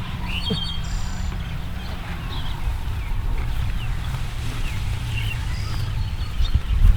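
Outdoor ambience of many birds giving short chirps and calls over a steady low rumble.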